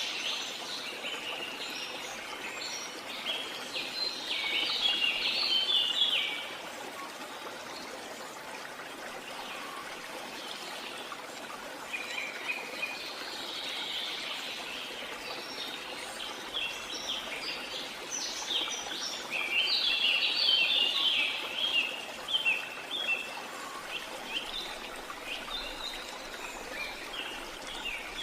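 A steady rush of flowing water under bursts of rapid, high bird chirping. The birdsong is dense for the first six seconds, drops away, and returns from about twelve seconds on.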